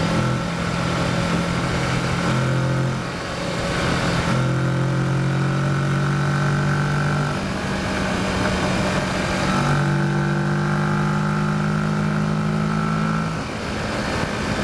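Kawasaki Versys motorcycle engine running under way at a steady cruise. The engine note eases off briefly about three seconds in, then picks up again, and it changes pitch again near ten seconds and near the end, as the throttle is opened and closed.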